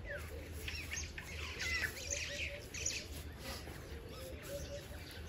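Several birds chirping and calling in quick, overlapping short notes, busiest in the first three seconds or so, over a steady low rumble.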